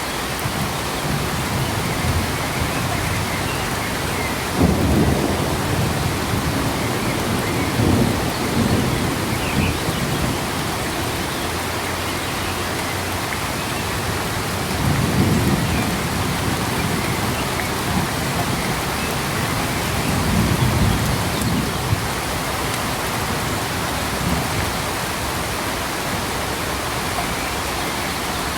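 Steady rain falling, an even hiss, with four brief low rumbles swelling up about 5, 8, 15 and 20 seconds in.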